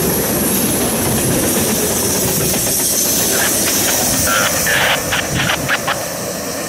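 Freight train cars rolling past at speed: a steady rumble and hiss of steel wheels on rail. A run of sharp clicks comes in the last few seconds as the cars go by.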